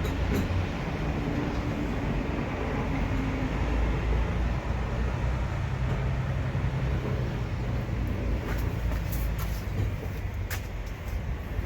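Semi truck's diesel engine running, a steady low rumble, with a few sharp clicks.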